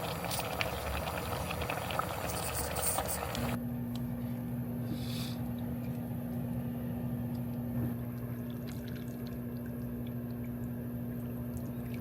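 Running water for about three and a half seconds, cut off abruptly and followed by a steady low electric hum.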